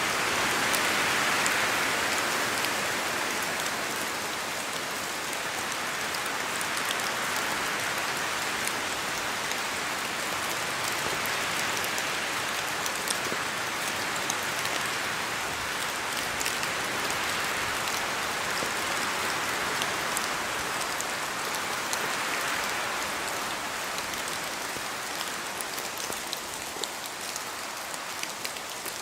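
Rain falling in a forest with wind: an even hiss that swells and eases, with many small ticks of drops falling from the trees. It is a little quieter toward the end.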